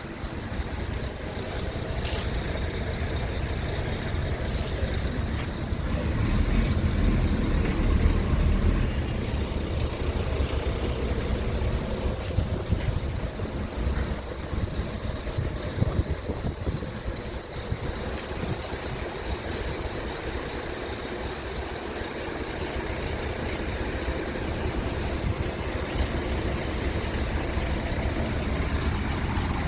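Scania R tractor unit's Euro 6 diesel engine running with a steady low rumble. The rumble grows louder for a few seconds starting about six seconds in, and a few faint clicks sound over it.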